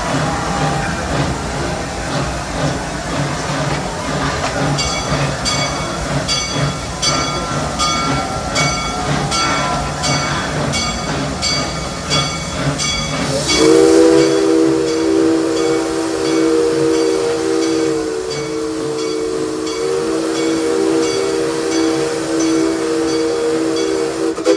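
Steam locomotive working up a grade with steady hissing, its bell ringing about twice a second. About halfway through, its chime whistle sounds one long, steady chord that holds to the end.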